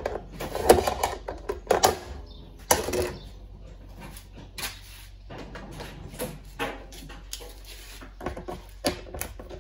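Irregular knocks and clanks of parts and tools being handled during a washing machine's mechanical teardown, the loudest in the first three seconds, a few with a brief metallic ring.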